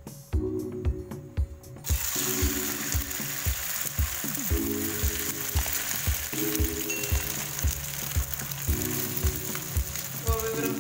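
Beaten egg and diced potato mixture frying in hot oil in a nonstick pan: a steady sizzle that starts suddenly about two seconds in. Background music with a steady beat plays underneath.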